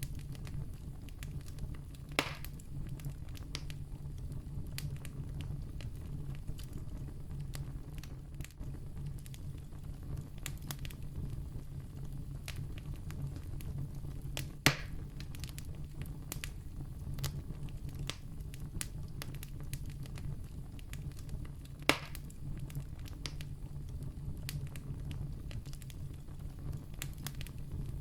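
Wood campfire crackling: a steady low rumble of burning with frequent small crackles, and three sharp, louder pops about 2, 15 and 22 seconds in.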